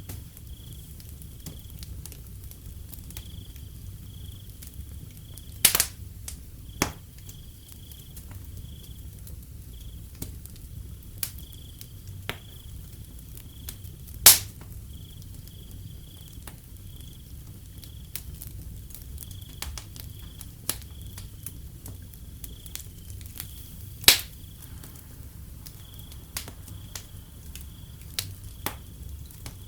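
Wood fire crackling with scattered sharp pops, three of them much louder, about six, fourteen and twenty-four seconds in, over a low steady rumble. Crickets chirp steadily in a pulsing rhythm behind it.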